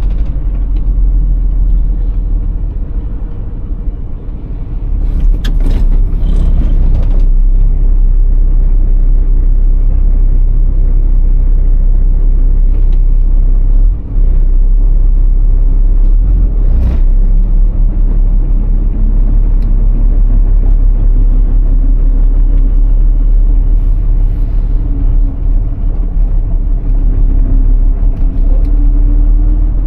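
Iveco truck's six-cylinder Tector diesel engine running under way, a steady low rumble. Its pitch climbs slowly through the second half as the truck accelerates, with a brief break in the sound near the middle.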